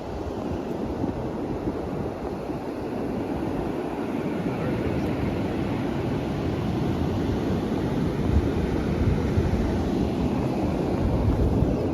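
Wind buffeting the microphone over the sound of surf, a steady low rumble that grows louder and gustier in the second half.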